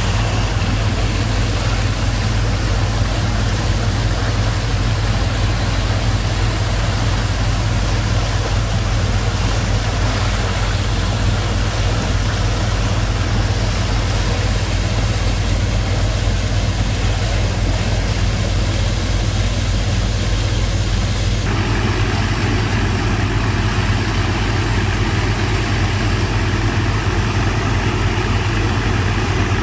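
Engine of a sand-pumping rig running steadily with a strong low rumble, pumping sand off a sand boat. Its tone changes abruptly about two-thirds of the way through.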